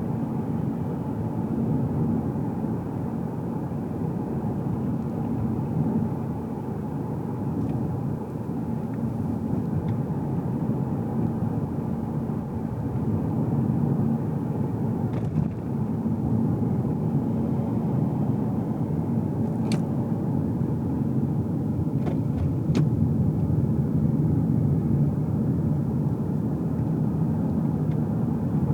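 Car driving, heard inside the cabin: a steady low hum of engine and tyre road noise, a little louder in the second half, with a few faint clicks.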